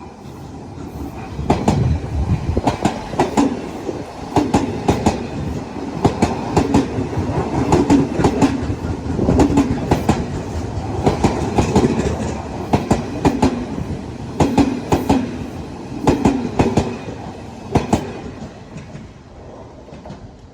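Electric train of the Odakyu Line passing close by. Its wheels clack over the rail joints in regular groups of clicks over a steady rumble. The sound builds in the first seconds and fades after the last cars go by near the end.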